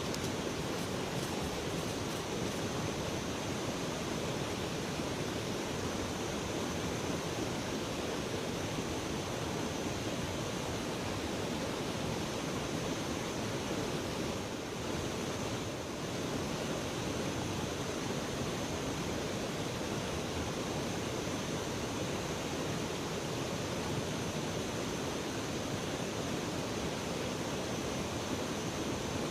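Flowing river water rushing, an even, steady noise with no pauses.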